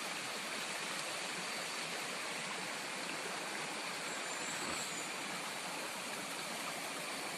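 Steady rushing of stream water, even and unbroken, with a faint high steady tone over it.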